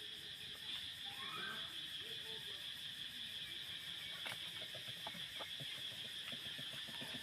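A steady high-pitched insect drone, with a short rising squeak about a second in and scattered faint clicks.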